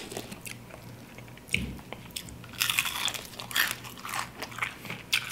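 Crunchy biting and chewing of fried chicken wings, a string of crisp crunches starting about a second and a half in.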